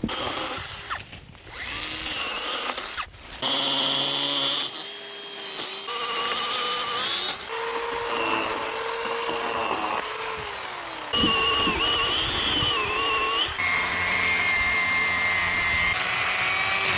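Electric chainsaw cutting oak branches: a loud, continuous motor whine whose pitch drops and shifts several times as the chain bites into the wood and eases off.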